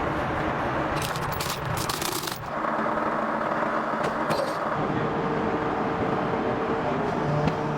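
A motor vehicle's engine running steadily, a low hum with a steady tone. Bursts of hiss come and go in the first couple of seconds.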